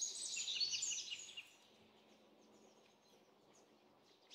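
Small birds singing, with quick runs of high chirping notes that are strongest for about the first second and a half, then only faint, scattered chirps.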